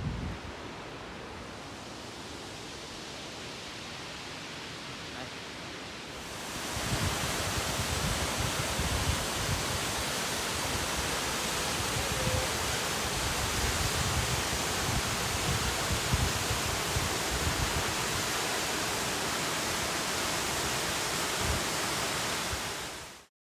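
Steady rushing of a waterfall, a two-tier fall of about 200 feet, with wind buffeting the microphone. The water noise jumps louder and brighter about six seconds in and cuts off suddenly near the end.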